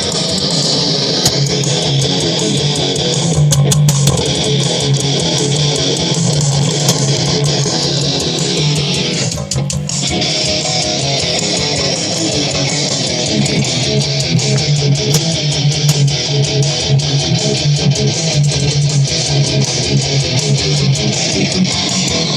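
Loud guitar music from a sound file played back at high volume, with strummed electric guitar and bass; it dips briefly about nine seconds in.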